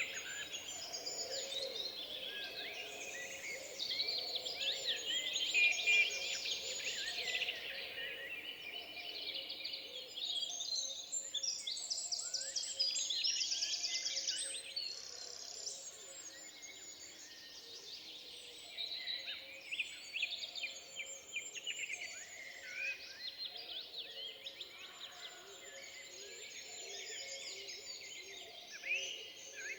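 Many woodland songbirds singing at once, overlapping chirps, whistles and trills, with one bird's fast trill standing out about halfway through.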